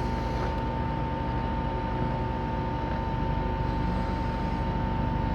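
Excavator's diesel engine running steadily, a constant drone with a steady high whine over it.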